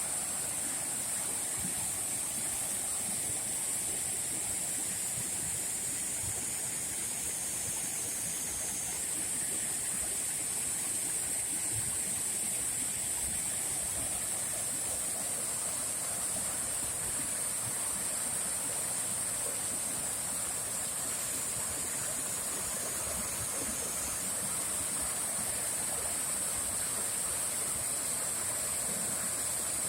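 Waterfall: water falling and rushing steadily, an even hiss that is strongest high in the treble and never changes.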